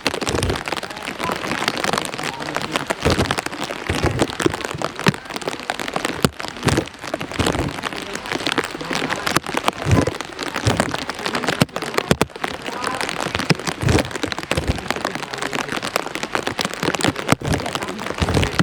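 Heavy rain pouring down, with a dense hiss of drops and many scattered sharp taps and occasional duller thuds of drops striking a nearby surface.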